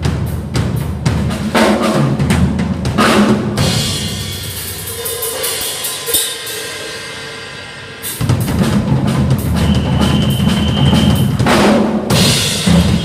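Drum kit played, with bass drum, snare and cymbals; the playing drops back to a quieter stretch in the middle, then comes back in full about eight seconds in.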